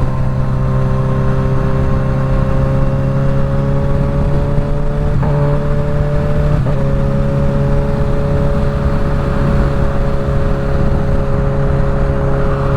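Suzuki GSX-S1000 inline-four with a full Dominator exhaust, running steadily at cruising speed and rising slightly in pitch, heard from the rider's helmet mic with wind noise. There are two short clicks, about five and about seven seconds in.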